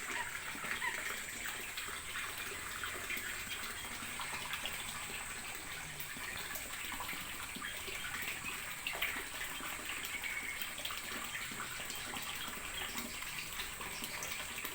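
Running water splashing steadily, with small crackles.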